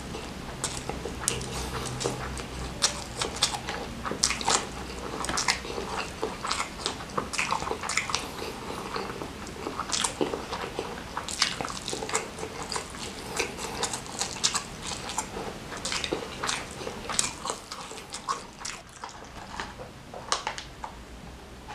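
Close-miked mukbang eating sounds: wet chewing, lip smacking and finger sucking, with many sharp mouth clicks, as spicy smashed fried chicken, fried instant noodles and rice are eaten by hand.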